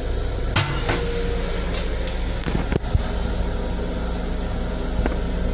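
Steady running drone of a Long Island Rail Road M7 electric railcar heard inside its restroom, the ride and ventilation noise of the moving car. Over it come short rushes of hiss about half a second and one second in, and a few sharp knocks about two and a half to three seconds in.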